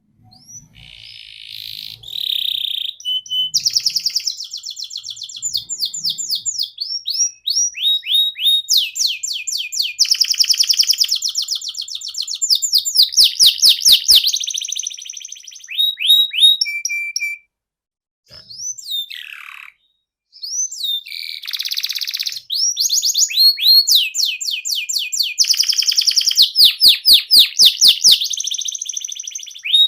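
Domestic canary singing a long song of rapid trills and rolls: fast-repeated, high sweeping notes in shifting phrases, broken by two short pauses a little past the middle.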